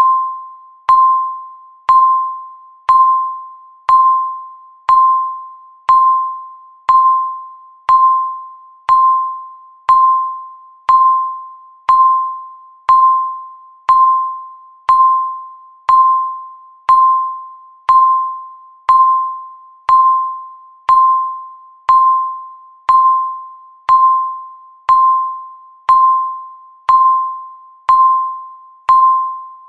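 Countdown timer beep sounding once every second: a single clear tone that starts sharply and fades away before the next, repeated evenly.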